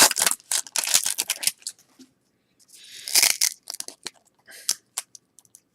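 Trading cards and a pack wrapper being handled: a string of quick papery flicks and clicks, with a longer rustle of the wrapper about three seconds in.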